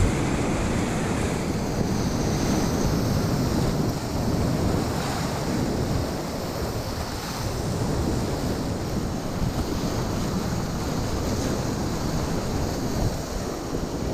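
Rushing whitewater of a river rapid, a steady noise of moving water, with wind buffeting the microphone.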